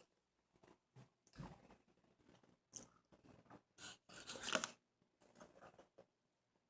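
Faint chewing and biting of a burger, coming in soft, irregular bursts; the loudest comes about four and a half seconds in.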